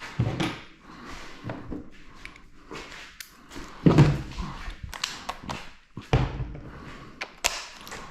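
Irregular knocks, thuds and clanks of hand tools and metal parts being handled while working on the engine's crank bolt, with a few heavier thuds about a second in, around the middle and near the end.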